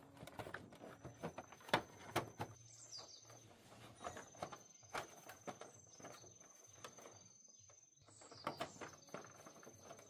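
Faint, irregular light clicks and taps of hand work, with birds chirping a few times and a thin steady high tone running underneath.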